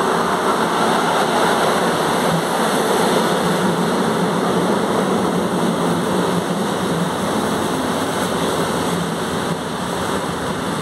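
SKM commuter electric multiple unit running into the platform: a steady rushing rumble of wheels on rail that eases a little near the end as the train slows to stop.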